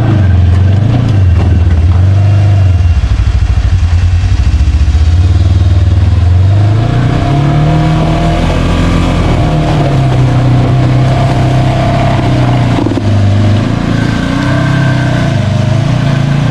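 A side-by-side UTV engine running loud and close under changing throttle, its revs rising and falling several times.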